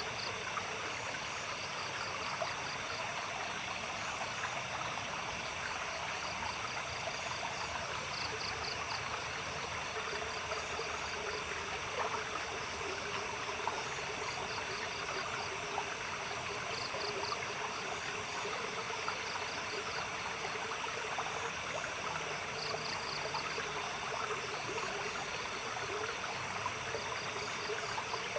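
Stream water babbling steadily. Over it, a night insect gives short trains of rapid chirps every few seconds.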